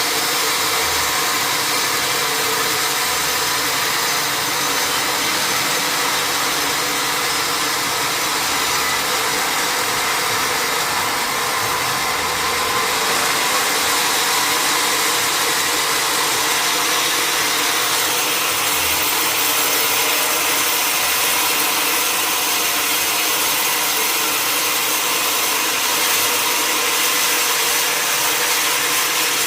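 Sawmill saw running steadily and cutting through a log: a loud, even mix of machine hum and cutting noise.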